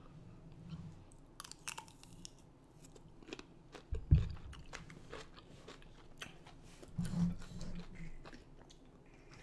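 Close-miked chewing of raw cucumber: crisp, wet crunches in an irregular run, with a loud low thump about four seconds in.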